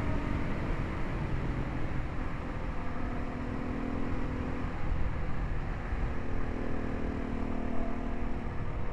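Single-cylinder adventure motorcycle engine running at road speed under a low rumble of wind and road noise. The engine note holds steady, shifts about halfway through, then settles again.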